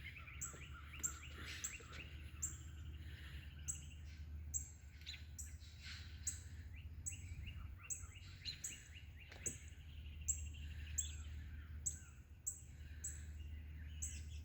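A flock of small birds calling and chattering in the trees. A thin, high, falling note repeats about twice a second throughout, over a steady low rumble.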